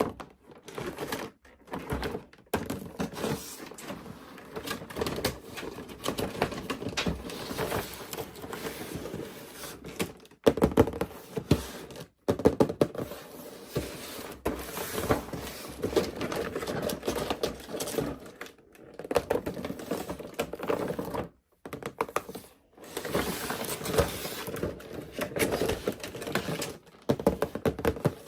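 Plastic toys and packaging being handled: a steady run of rapid clicks, taps and knocks, broken by a few short silent gaps.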